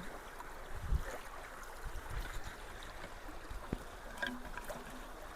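Creek water running steadily into a culvert whose inlet has just been partly cleared of debris, now flowing much better, with a few low thumps and knocks scattered through.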